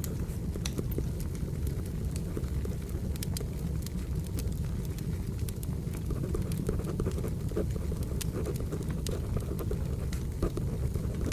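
Wood fire crackling: a steady low rumble of burning logs with frequent irregular sharp pops and snaps. Pencil writing on paper is mixed in underneath.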